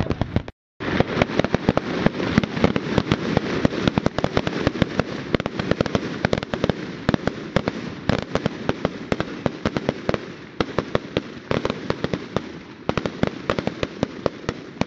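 Fireworks going off: a dense, rapid crackle of many small bangs, several each second, with a brief cut to silence about half a second in.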